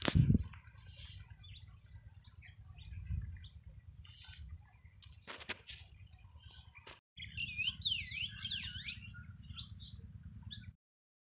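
Small birds chirping, with a run of quick rising-and-falling whistled calls about seven to nine seconds in, over a steady low rumble of wind on the microphone. A handling thump sounds right at the start.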